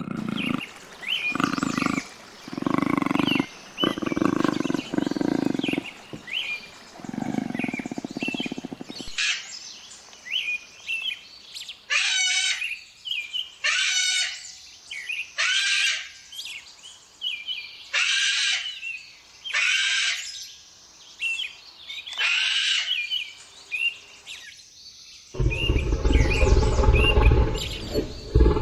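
Leopard sawing call: a run of deep rasping grunts, about one a second, over small birds chirping. Later come six loud shrill calls about two seconds apart, and near the end a loud low rumbling noise begins.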